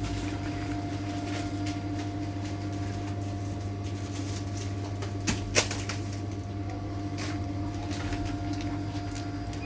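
Steady electrical machine hum, with two sharp clicks about five and a half seconds in.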